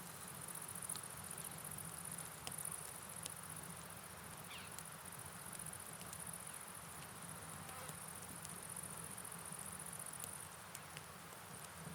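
Night ambience: a steady, high, pulsing chirring of insects over a soft, even hiss of rain and running water, with scattered faint clicks.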